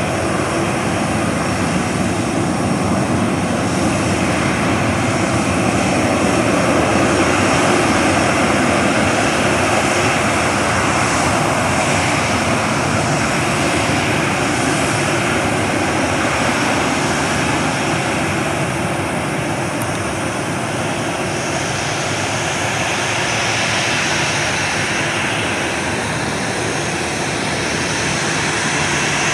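Narrow-body jet airliner engines running: a loud, steady noise with thin high whining tones, swelling slightly about six to eight seconds in.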